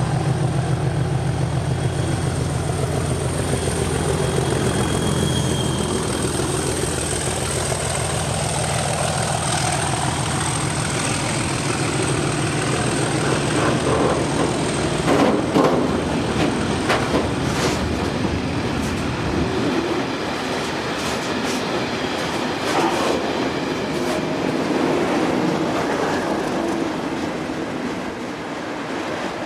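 Class 37 diesel locomotive's English Electric engine running as the train moves off, its low drone fading over the first twenty seconds or so. There is a thin high wheel squeal during the first half, then wheels clatter over rail joints.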